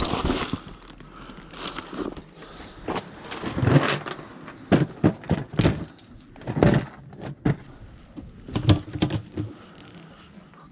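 Irregular knocks and clatter of scrap metal being picked up and handled, a dozen or so sharp hits with brief ringing, loudest a few seconds in.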